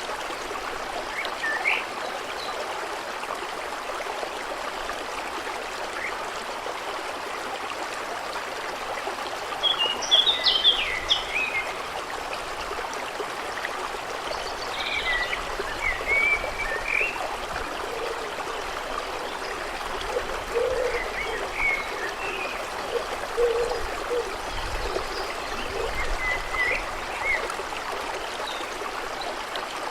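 A stream running steadily, with birds chirping over it in short bursts, the loudest run of chirps about a third of the way through.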